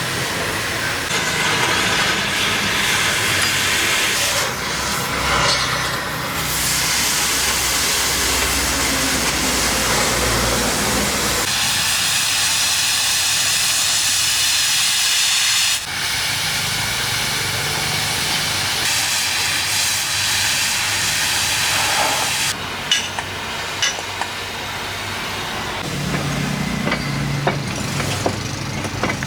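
Loud continuous hissing, like gas or air rushing out, that changes character several times. It turns sharper and higher for a few seconds in the middle and then cuts off suddenly. A few sharp clicks and pops come near the end.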